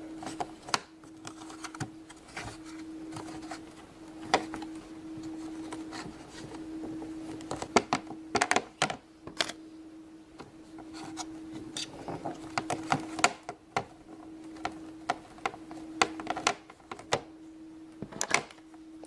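Irregular clicks and taps of plastic Play-Doh mold and tool pieces and dough being handled on a tabletop, over a steady low hum.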